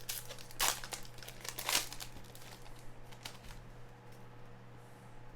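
Foil trading-card pack wrapper crinkling and tearing open, with two louder rips about half a second and a second and a half in, then lighter crinkles.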